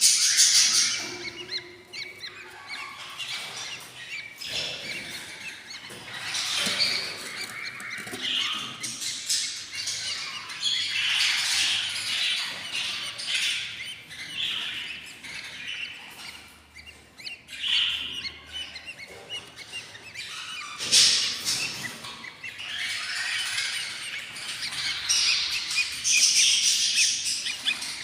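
Eight-day-old budgerigar chicks in a nest box giving high-pitched, raspy cheeps in waves of rapid calls, the begging sound of hungry nestlings.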